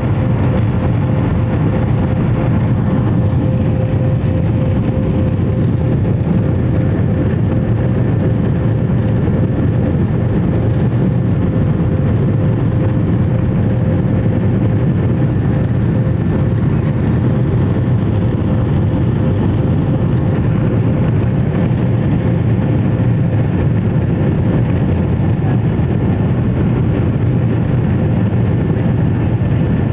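Steady, unchanging noise of a Boeing 737-500's CFM56 jet engines and airflow inside the cabin, a loud low roar with a steady whine running through it.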